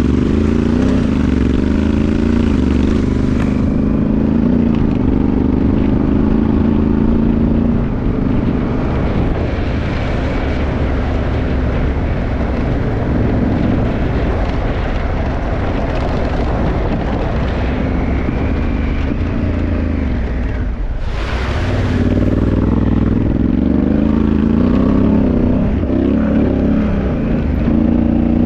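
Honda Africa Twin 2018's parallel-twin engine through an Akrapovic exhaust, running under way with its pitch repeatedly rising and falling as it accelerates and eases off. A short rushing noise cuts across it about two-thirds of the way through.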